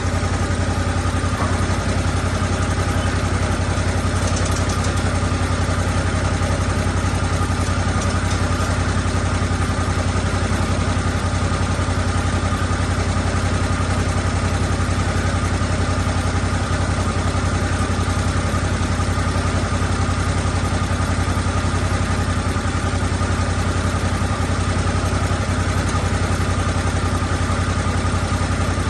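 Lucas Mill 10-30 swing blade sawmill's engine running steadily at an even speed.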